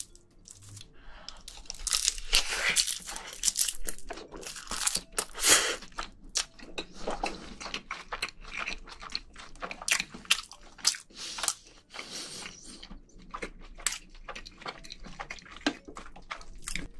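Close-miked chewing of a mouthful of soy-sauce-crab bibimbap wrapped in roasted seaweed: a dense, irregular run of wet mouth clicks and smacks, busiest in the first few seconds.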